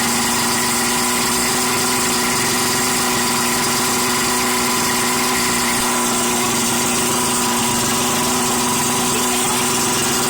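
Boat motor running at a steady speed, its pitch holding level throughout.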